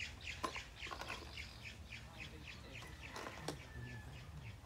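Birds chirping: a quick run of short chirps, each falling in pitch, several a second.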